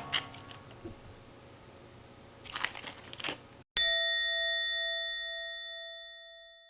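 Faint clicks and handling noise, then a single bell-like metallic ding about halfway through that rings on and fades away over about three seconds.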